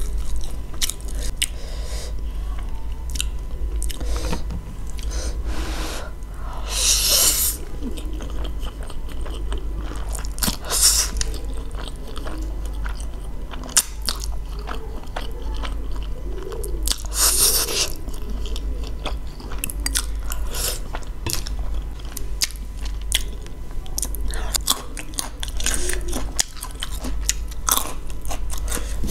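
Close-miked chewing of cheesy spicy instant noodles: a steady run of short wet mouth clicks and smacks. Two longer slurps stand out, about 7 and 17 seconds in.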